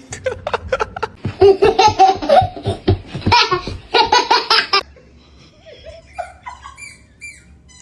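A person laughing hard in repeated bursts for about five seconds, then a few faint, short high-pitched chirps.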